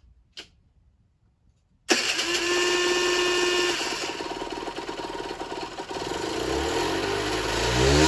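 Generic Trigger SM 50cc two-stroke engine starting suddenly about two seconds in and running, its revs climbing on their own near the end. It is not running well, which the owner puts down to an air leak at the intake.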